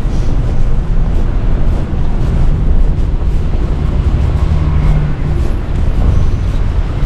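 Strong blizzard wind buffeting the microphone: a loud, steady, low rumble with a hiss of blowing wind over it.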